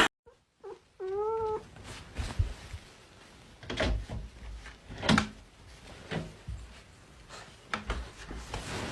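A cat gives one short meow about a second in, followed by a few scattered thumps and rustles, the loudest about five seconds in.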